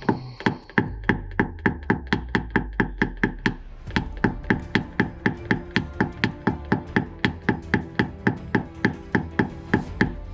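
Rapid, even taps of a paintless-dent-repair hammer and knockdown on a car body panel, about four or five a second, tapping down high spots.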